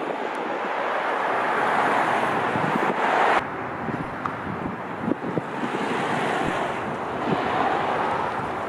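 Wind buffeting the microphone as a steady rushing noise. It swells, cuts off abruptly about three and a half seconds in, then builds again.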